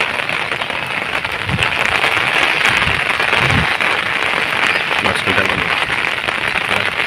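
Steady hiss of heavy cyclone rain with strong gusting wind.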